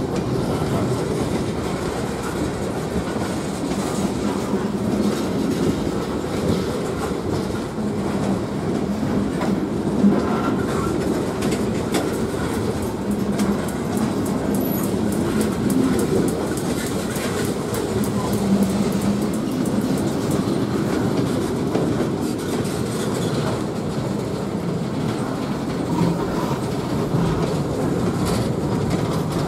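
Freight cars rolling steadily past close by: a continuous rumble of steel wheels on rail, with an occasional sharp click.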